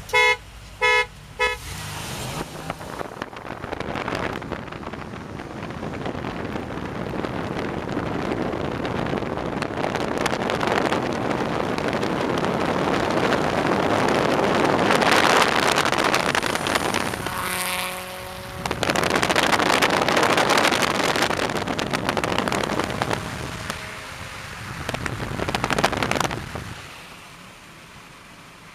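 A car horn gives a few short toots as the start signal. Then cars accelerate hard in a race: engine and wind noise builds loud and steady, dips briefly about two-thirds of the way through, surges again, and fades away near the end.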